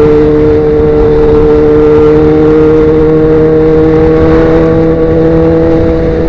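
Sportbike engine through Danmoto XG-1 aftermarket exhaust pipes, pulling steadily at high revs while riding, its pitch creeping slowly upward and dipping slightly near the end.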